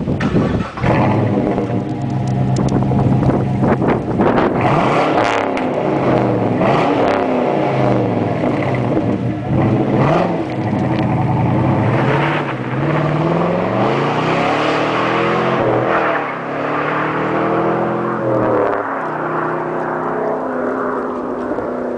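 2004 Pontiac GTO's LS1 V8 through a loud exhaust, revving and accelerating, its pitch repeatedly climbing and then dropping back.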